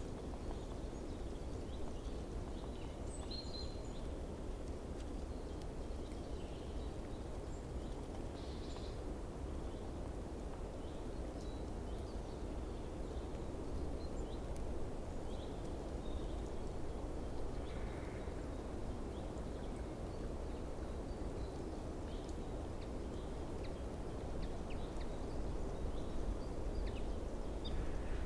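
Steady low outdoor background rumble, with faint, scattered short bird chirps high above it.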